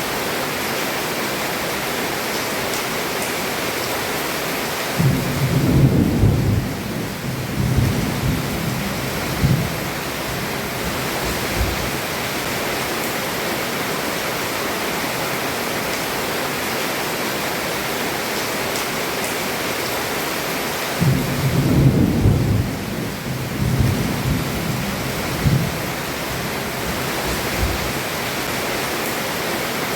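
Heavy rain falling steadily on a roof, with two low rolls of thunder. The first starts about five seconds in and the second about twenty-one seconds in, and each rumbles for several seconds before fading back into the rain.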